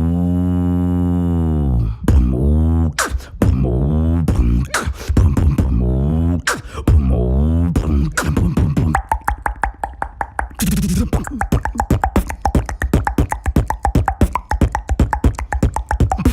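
Vocal beatboxing by one performer. First come four swooping low hummed bass notes, each about a second or two long. From about nine seconds a fast run of clicks and percussive mouth hits plays over a faint held hum.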